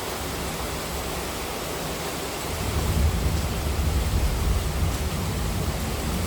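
Heavy monsoon rain falling as a steady hiss. A low rumble swells in about halfway through and makes it louder.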